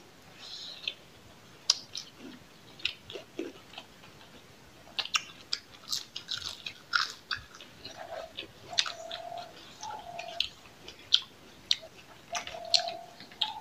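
Two people chewing and biting food close to the microphone, with crunching and many short wet mouth clicks and smacks scattered throughout.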